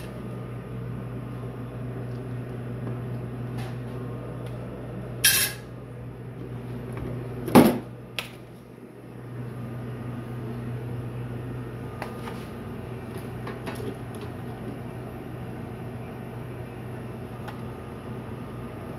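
Kitchen clatter: a few sharp knocks over a steady low appliance hum. The loudest knock comes about seven and a half seconds in, and the hum drops out briefly just after it.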